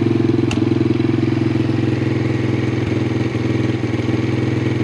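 Carbureted Grom-clone small motorcycle engine idling steadily while it warms up after a cold start. A single sharp click about half a second in.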